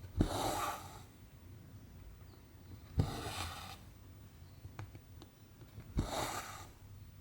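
Cross-stitch needle punching through 14-count canvas with a sharp tap, then cotton thread drawn through the fabric with a short rasping swish. This happens three times, about three seconds apart, with faint small ticks between the stitches.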